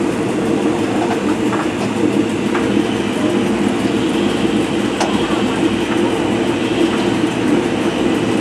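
Train running along the track, a steady rumble with a few sharp clicks from the wheels on the rails.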